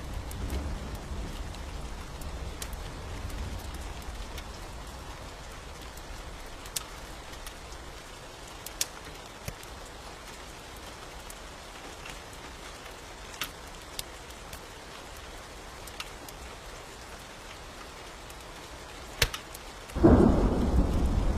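Steady rain with a low rumble of thunder dying away over the first few seconds, and a few scattered sharp pops. Near the end a sharp crack is followed by a loud thunderclap that rumbles on.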